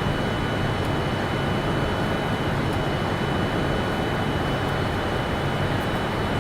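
Steady low rumble and hiss with a faint, constant high whine, unchanging in level.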